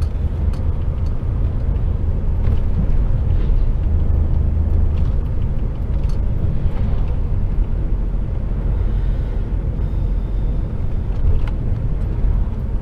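Steady low rumble of an HGV truck's diesel engine and road noise heard inside the cab as it drives along, with a few faint light clicks and rattles.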